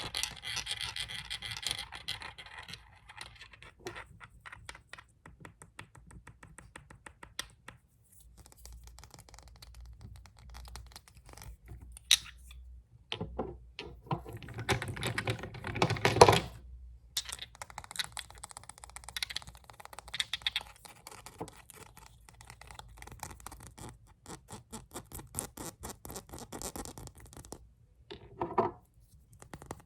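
Fast fingernail tapping and scratching on glass nail polish bottles: dense rapid clicks, with a louder stretch of scratching about halfway through.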